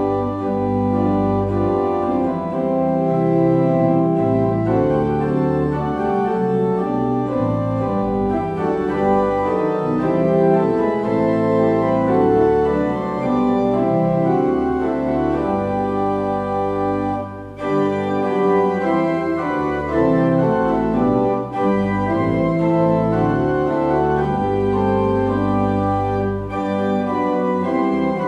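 Organ music: sustained chords changing slowly, with a short break about seventeen seconds in.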